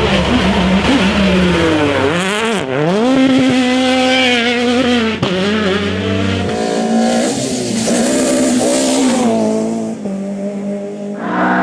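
Rally car engine revving hard, its pitch dropping and climbing again and again through gear changes and lifts off the throttle. Near the end the sound changes suddenly to another car running at steady high revs.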